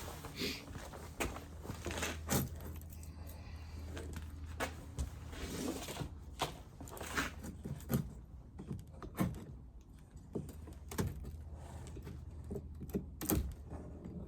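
Wooden beehive frames and hive parts being handled: irregular sharp clicks and knocks of wood and metal, some in quick runs.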